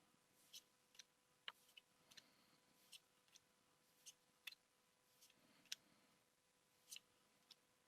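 Faint, irregular clicks and light snaps of Pokémon trading cards being handled and flicked through by hand, roughly one or two a second, over a faint steady hum.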